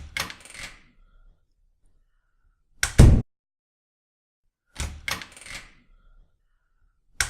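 A repeating sound effect: a short rattling clatter of clicks, then about two seconds later a heavy, low double thud. The same pair comes twice, identical each time.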